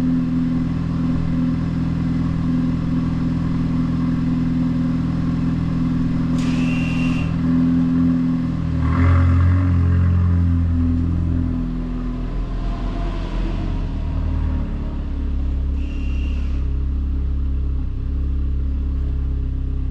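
Renault Mégane 4 RS Trophy 300's 1.8-litre turbocharged four-cylinder idling steadily after a cold start on the stock exhaust; the idle note drops slightly about twelve seconds in. Two short high chirps are heard over it.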